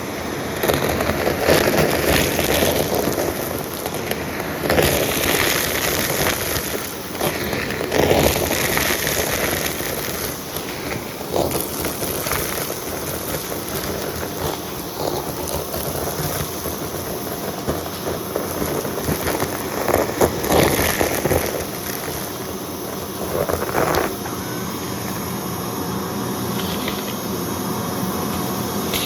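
Vacuum cleaner running and sucking up crunchy debris, with crackling surges as the grit rattles up through it, several times over.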